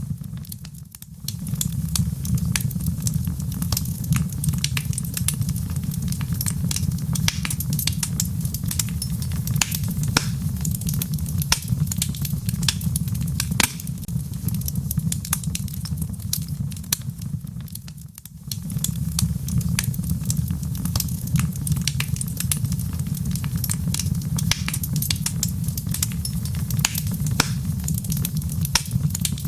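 Wood fire burning in a fireplace: a steady low rumble of flames with frequent sharp crackles and pops from the burning logs. The sound dips briefly twice, about a second in and around eighteen seconds in.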